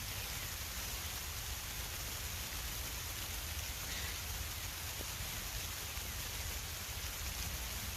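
Steady rain falling, an even hiss with a few single drops striking close by.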